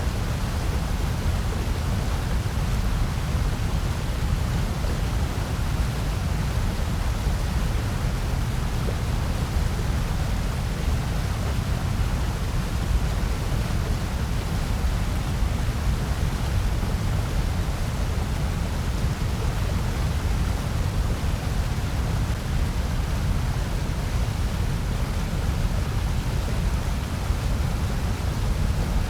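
Steady, unchanging electronically generated noise, heaviest in the low end: a deep rush with a softer hiss above it.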